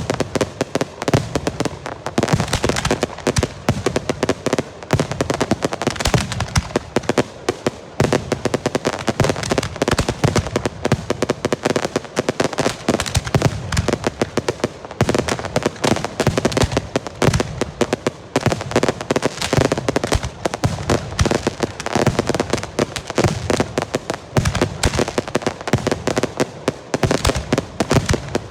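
Portuguese girândola fireworks: salvoes of rockets bursting in a dense, unbroken rattle of bangs, many per second.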